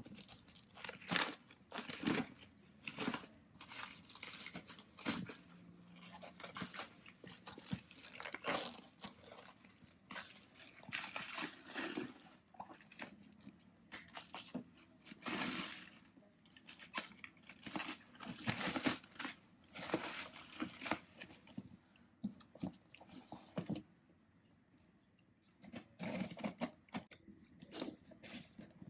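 Product packaging being handled and opened: irregular crinkling, tearing and scraping of cardboard and plastic in short bursts, with a quieter pause about two-thirds of the way through.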